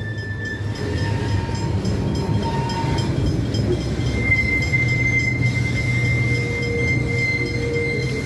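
Freight wagons loaded with steel coils rolling past with a steady low rumble of wheels on rail. A high, steady wheel squeal sets in about halfway through and holds to the end.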